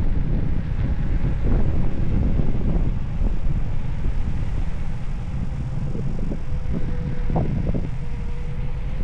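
Wind buffeting the microphone: a dense, loud low rumble with scattered knocks, and a faint steady whine in the second half.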